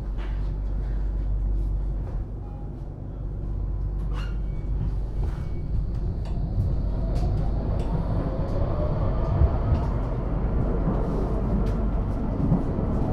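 Tram heard from inside the passenger cabin: a steady low running rumble with a few clicks. About halfway through, the traction motors' whine starts to rise in pitch as the tram gathers speed.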